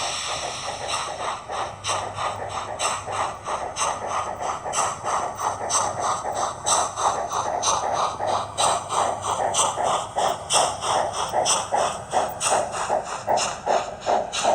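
Simulated steam exhaust from the LokSound 5 DCC sound decoders in model NSWGR steam locomotives, a 58 class and an AD60 Garratt, chuffing in a steady beat of about two a second and growing louder.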